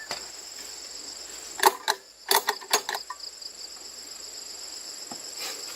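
Crickets chirping steadily, with a handful of sharp clicks and knocks in quick succession about two seconds in.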